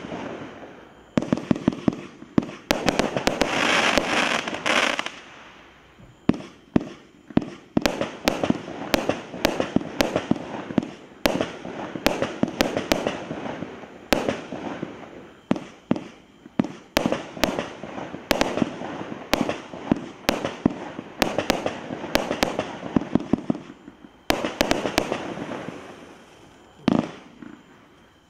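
Cosmic Fireworks Thunder Dragon, a 107-shot single-ignition firework cake, firing a barrage: shells launching and bursting in sharp bangs, a few a second at irregular spacing, with a spell of dense noise a few seconds in.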